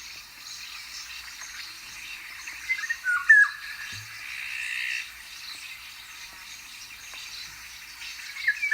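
Eurasian golden oriole singing its short, fluting whistled phrase, once about three seconds in and again near the end, over faint chirping from other small birds.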